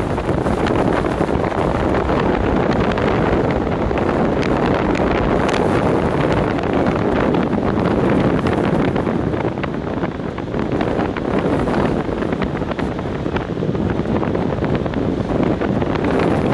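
Strong storm wind, 35 mph gusting to 45, buffeting the microphone, steady and loud with a brief lull about ten seconds in, over the wash of breaking lake surf.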